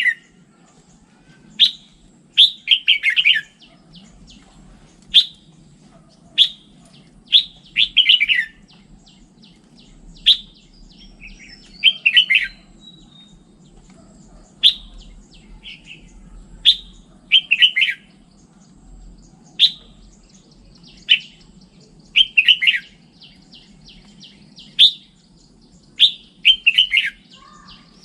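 Red-whiskered bulbul singing: short, clear phrases of sharp notes, each ending in a quick falling cluster, repeated about every two seconds.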